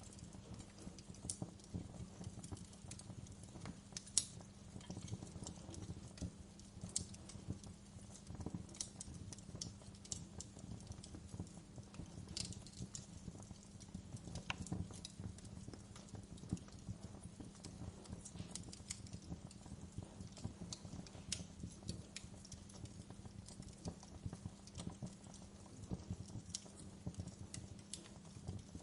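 Wood fire in a fireplace crackling, with irregular sharp pops and snaps over a low steady rumble; one louder pop about four seconds in.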